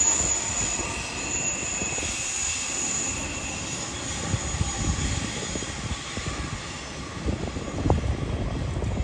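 Queensland Rail electric suburban trains on curved track: a high wheel squeal fades out over the first few seconds above a steady rumble of wheels on rail, with a few knocks near the end.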